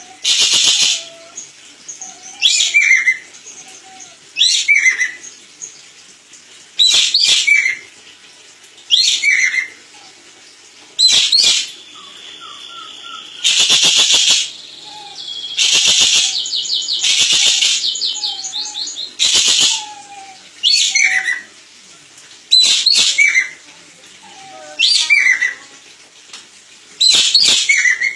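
Ekek keling bird calling over and over: a loud, harsh, rattling call about every two seconds, each ending in downward-sliding notes. Softer chirps of another bird sound faintly underneath.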